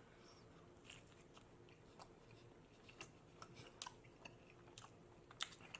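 Faint close-up chewing of pizza: a scattering of soft mouth clicks and smacks.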